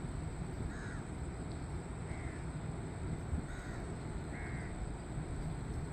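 Four short bird calls, about a second apart, over a steady low background rush.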